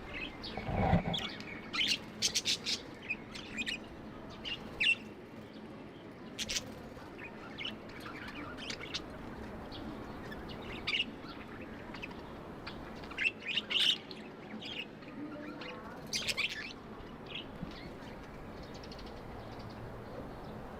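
Budgerigars chirping in short, irregular calls, with a low thump about a second in.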